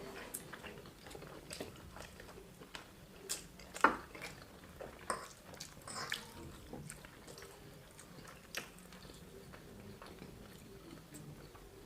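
A person chewing a mouthful of food: irregular wet mouth clicks and smacks, the sharpest about four seconds in.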